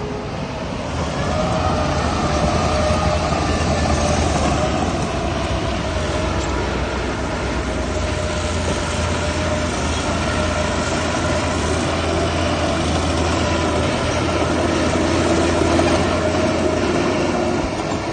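Heavy diesel earthmoving machinery running steadily, a deep engine rumble with a mechanical whine over it, growing louder about a second in as the engine works harder.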